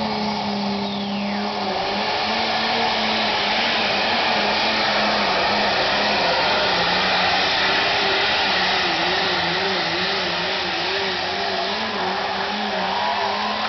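John Deere super stock pulling tractor's engine running flat out under load through a pull, a loud, steady drone whose pitch wavers up and down in the second half.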